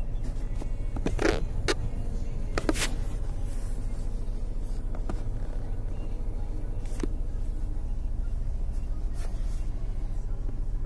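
Maruti Suzuki Wagon R CNG's 1.0-litre three-cylinder engine idling, heard from inside the cabin as a steady low drone. A few light clicks and scrapes from handling the phone and the dashboard come in the first three seconds, and one more about seven seconds in.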